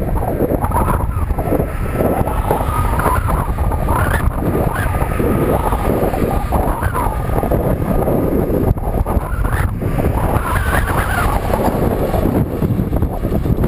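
Wind buffeting the microphone of a moving bicycle, with road traffic passing alongside, several vehicles swelling and fading one after another.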